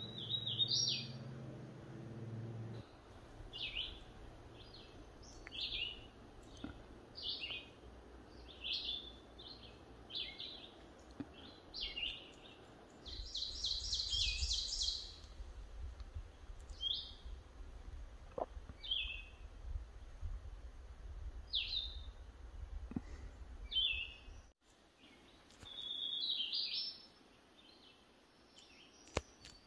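A songbird sings short high phrases, about one a second, with a denser buzzy trill near the middle.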